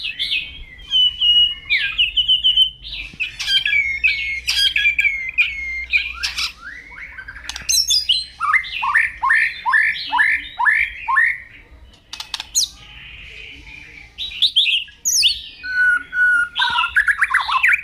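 White-rumped shama (murai batu) singing loud, varied phrases of clear whistles and rapid trills, including a run of about seven down-slurred notes in the middle.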